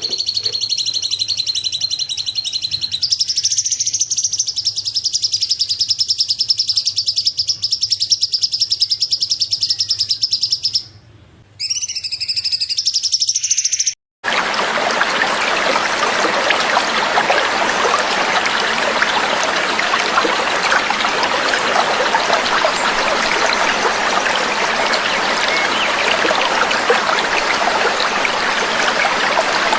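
A songbird's rapid, unbroken high trill from a bird-song training recording, pitched a little higher from about three seconds in. About halfway through it cuts off abruptly and gives way to steady trickling water.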